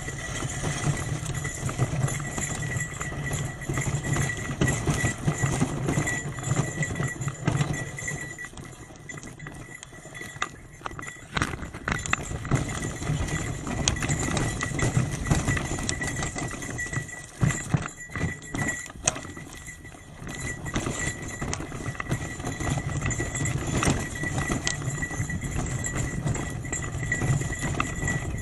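Hybrid bicycle ridden over a rough forest road: a steady clatter of small knocks and rattles over a low rumble, easing off twice, around a third of the way in and again past the middle.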